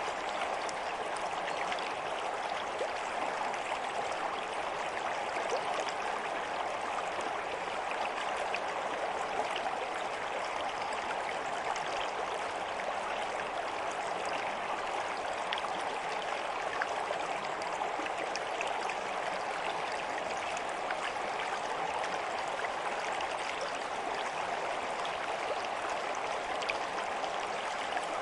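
A stream of water flowing steadily, an unbroken rushing babble with small splashes and drips scattered through it.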